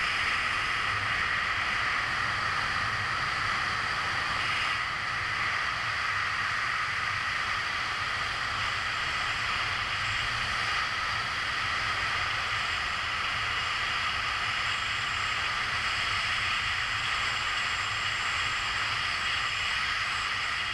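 Steady rush of wind over a camera mounted on a wingsuit in full flight, with a few steady high hums running through the noise.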